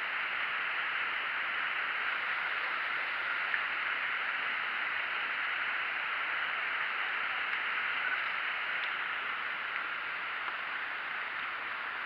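Steady rushing hiss of falling water from Franklin Falls, a waterfall on the South Fork Snoqualmie River, even and unbroken throughout.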